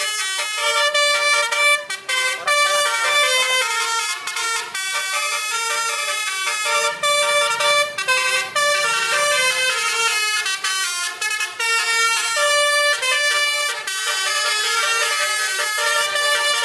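Truck-mounted 'basuri' multi-tone horn playing a melody, one short horn note after another in quick steps of pitch.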